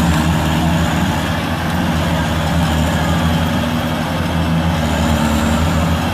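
Heavy diesel engine of the machinery working to free a rice combine harvester stuck in deep mud, running steadily and loudly.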